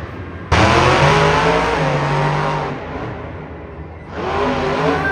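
Monster truck engine revving hard: it cuts in suddenly about half a second in and slowly eases off, then revs up again near the end.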